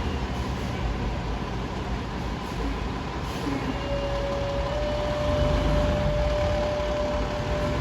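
Heavy emergency truck passing, its diesel engine and road noise rumbling steadily. A thin steady tone joins about four seconds in.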